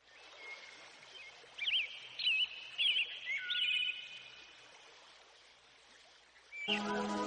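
A bird calling in a quick run of looping chirps, about five of them between one and a half and four seconds in, over a steady hiss of outdoor background noise. Music comes in near the end.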